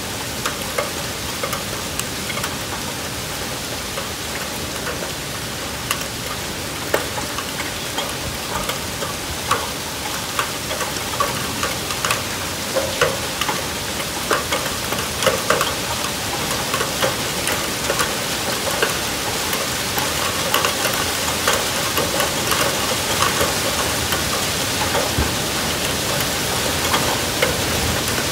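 Heavy rain pouring down with hail, a steady hiss sprinkled with sharp ticks of hailstones striking. The ticks grow thicker and louder through the second half.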